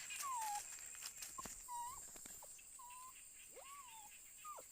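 Puppies whimpering: about five short, thin whines that slide down or rise and fall in pitch, with a steady high-pitched buzz behind them.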